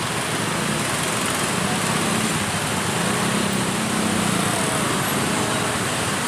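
Steady vehicle running noise with a low hum and no pauses or sharp events.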